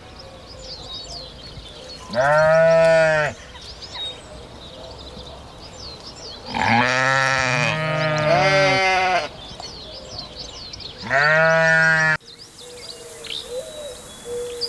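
An animal bleating: four calls of about a second each, each rising and then falling in pitch, the middle two running together. Birds chirp faintly behind.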